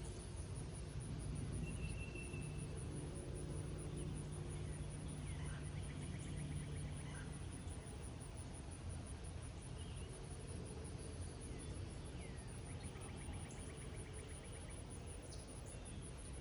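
Summer rain falling steadily over a meadow, with birds chirping and twice giving a short, rapid trill. A steady high-pitched pulsing buzz and a low hum run underneath.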